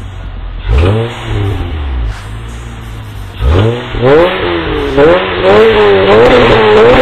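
2001 Acura TL's V6 through XS-Power headers, an eliminated mid-muffler and Comptech axle-back mufflers, revving. There is a quick rev and drop about a second in, another at about three and a half seconds, and then the revs are held high and waver up and down.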